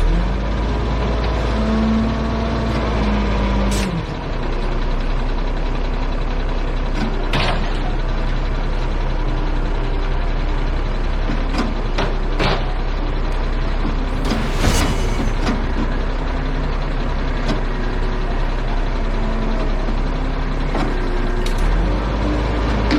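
Heavy truck diesel engine running with a steady low rumble, its pitch rising and then falling in the first few seconds. Scattered clicks and knocks, and a short burst of air hissing from the truck's air brakes about two-thirds of the way through.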